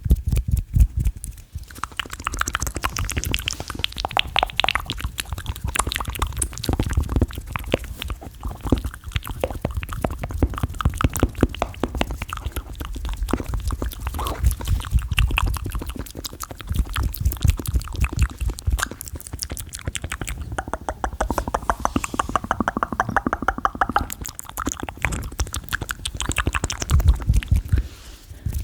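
ASMR mouth and hand sounds made close to the microphone: a rapid, continuous stream of clicks and smacks with low thuds.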